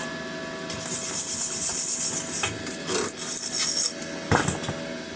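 Flux-core arc welding with a Parkside PMSG 200 A1 welder, filling a hole in steel with weld. The arc runs in irregular hissing bursts starting about a second in, breaking off briefly a few times, then fires once more briefly near the end.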